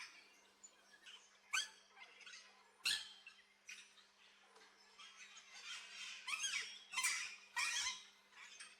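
Aviary birds calling: a busy run of short chirps and squawks, with two sharp loud calls about a second and a half and three seconds in and the calls crowding together in the second half.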